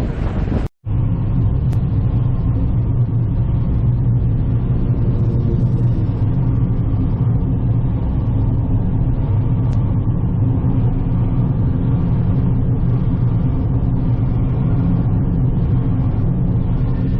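A car driving at a steady pace, with a low, even engine and road hum.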